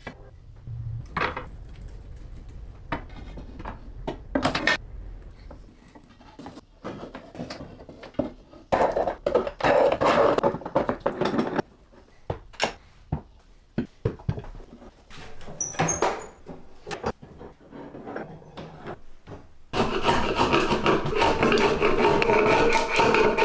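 Workshop sounds of wood being worked: scattered knocks of wooden pieces, a stretch of hand sawing or rasping about nine seconds in, then a power tool motor starting suddenly near the end and running steadily.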